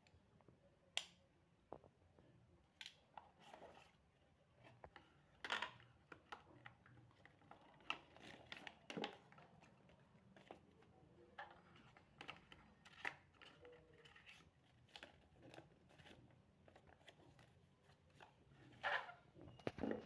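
Faint handling noises: scattered clicks, taps and rustles, the sharpest about a second in and again near the end.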